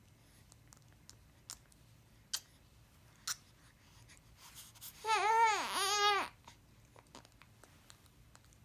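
A baby babbling: one loud pitched vocal about five seconds in, its pitch swooping up and down twice, after a few faint ticks.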